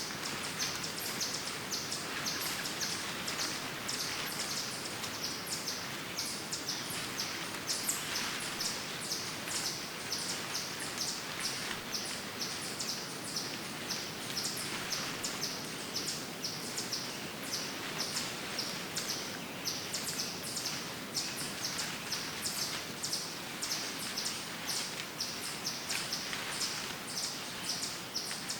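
Woodland ambience: small birds chirping rapidly and without a break, several short high chirps a second, over a steady background hiss.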